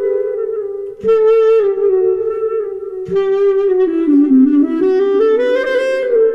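Clarinet played through a Zoom B1Xon multi-effects unit on its 'solo with delay' patch: a single melodic line with phrases starting about one and three seconds in, dipping in pitch near the middle and rising again.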